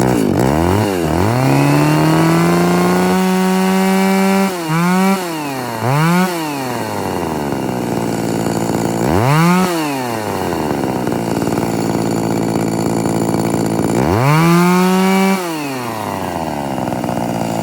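John Deere 66 SV two-stroke chainsaw running and being revved by the throttle. It winds up at once and holds high revs for about four seconds, then gives two quick blips. It idles, gives a short sharp blip near the middle, idles again, then holds a second high rev for about a second and a half before dropping back to a steady idle.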